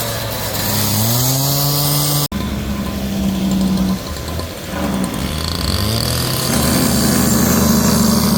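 An engine running, its pitch dipping and then climbing about a second in. After a sudden break about two seconds in, a lower, steadier engine hum follows and grows a little louder near the end.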